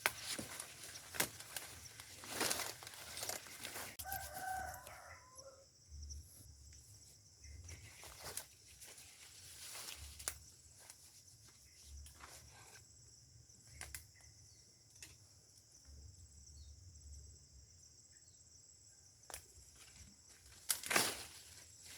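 A rooster crows once, briefly, about four seconds in, over intermittent rustling and knocks.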